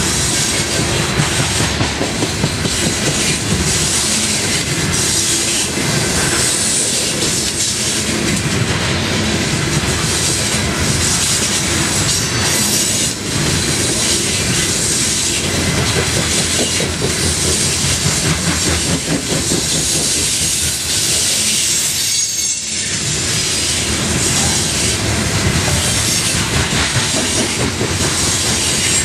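Coal cars of a long freight train rolling past at close range: a steady, loud rumble and clatter of steel wheels on the rails and over rail joints.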